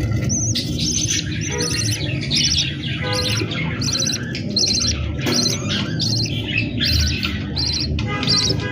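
Budgerigars chirping and squawking: a run of short, sharp high calls, about two a second.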